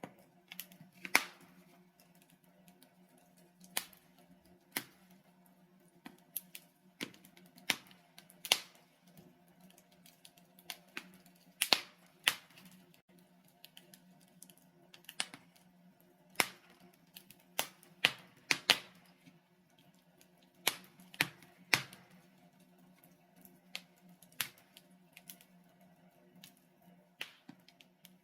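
Wood fire of burning logs crackling, with irregular sharp pops a second or more apart, a few of them much louder than the rest, over a faint low steady hum.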